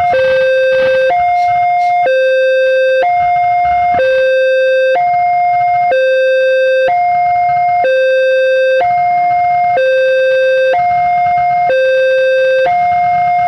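Electronic level-crossing warning alarm sounding a loud two-tone hi-lo signal, alternating between a higher and a lower tone about once a second, over a low traffic rumble.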